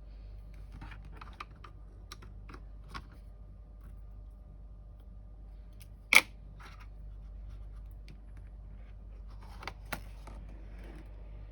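Scattered light clicks and taps of small parts being handled during laptop repair work. One sharp, loud click comes about six seconds in, and two more clicks come near the end.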